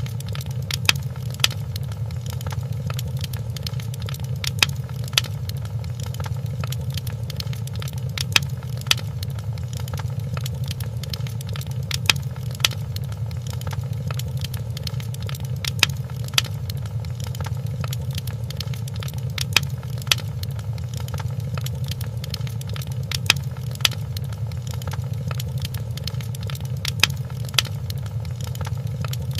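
Crackling fireplace: a steady low rumble of burning wood with sharp pops. The pops come in pairs about half a second apart, and the pairs repeat evenly every three to four seconds.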